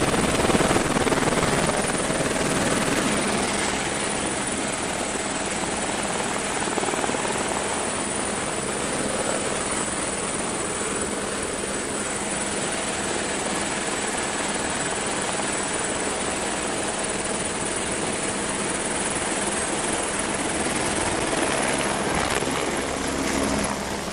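Helicopter's turbine and rotor running steadily close by: a dense rushing noise with a high steady whine.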